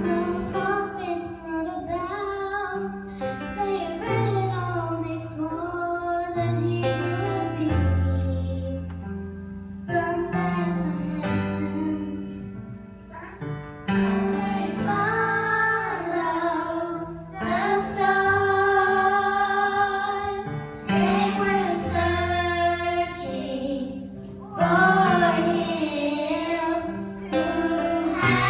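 A solo singer, a young-sounding voice, singing a song over instrumental accompaniment of held low notes, with short pauses between sung phrases.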